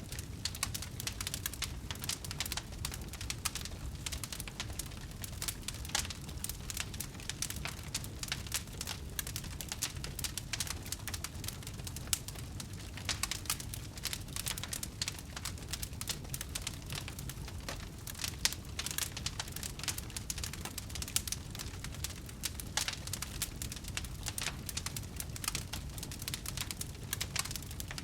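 Wood fire crackling: a dense, continuous run of small pops and snaps over a steady low rumble of burning.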